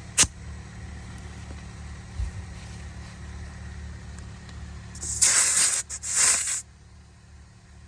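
Air hissing in two loud bursts, about five and six seconds in, as an old flat tyre is inflated. A motor hums steadily underneath, with a sharp click just after the start.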